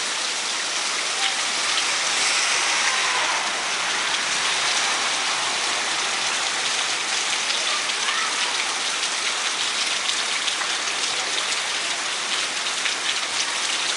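Steady rain falling, with the fine ticks of individual drops hitting close by.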